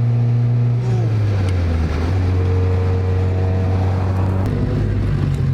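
Car engine and aftermarket exhaust droning steadily while driving, heard from inside the cabin. The pitch drops about a second in and then holds steady.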